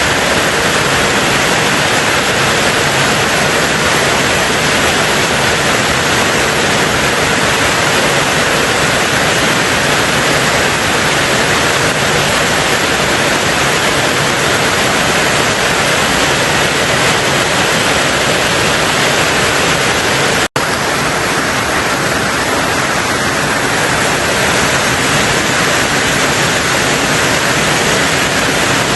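Heavy rain falling on a tin roof: a dense, steady hiss of drops. About twenty seconds in, the sound cuts out for a split second and then resumes.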